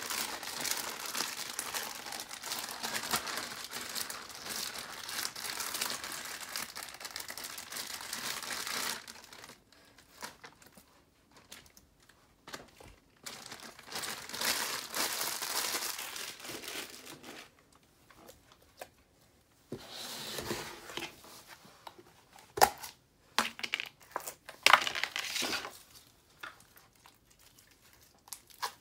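Clear plastic zip-top bag crinkling and rustling as hands squeeze slime out of it, dense for the first several seconds, then in shorter bursts with quiet gaps. A few sharp clicks come in the last few seconds.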